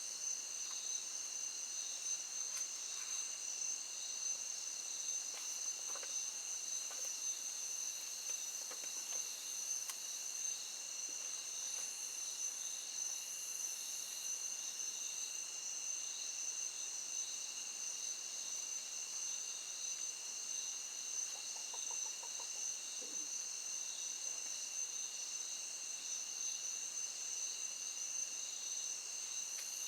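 A steady, high-pitched chorus of insects such as crickets, an unbroken drone of several pitches. About two-thirds of the way through comes a brief, faint call, like a hen clucking.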